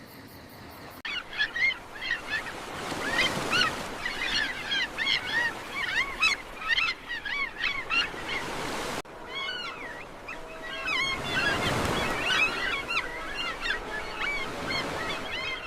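Nature ambience of many birds chirping and calling rapidly over the wash of waves, with the sound cutting abruptly about a second in and again about nine seconds in.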